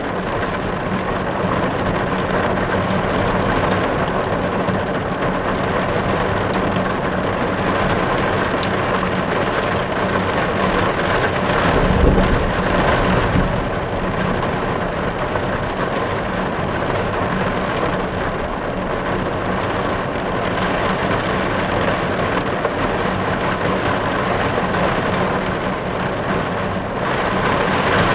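Steady rain drumming on a car's roof and windows, heard from inside the car. About twelve seconds in, a brief low rumble swells under the rain.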